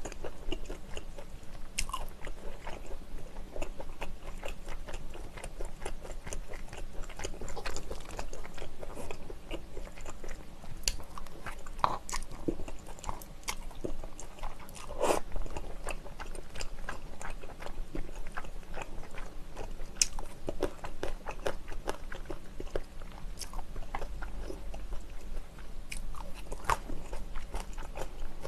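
Close-miked eating of chewy wide Chinese glass noodles: steady chewing and biting with many small wet mouth clicks and smacks throughout.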